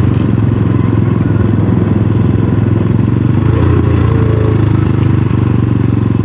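Hawkeye DF250RTS / Venom X22R dual-sport motorcycle's single-cylinder engine running steadily, with a constant low firing pulse and only a slight change in pitch about halfway through.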